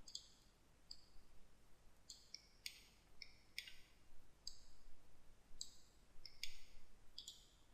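Computer mouse clicking: a dozen or more faint, short clicks at irregular intervals, some in quick pairs.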